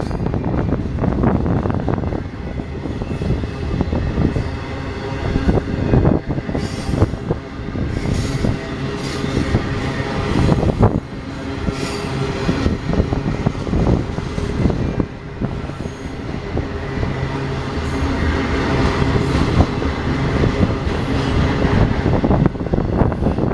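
BNSF double-stack container train's cars rolling past: steady wheel-on-rail noise with repeated knocks and clatter, and a high squeal from wheel flanges.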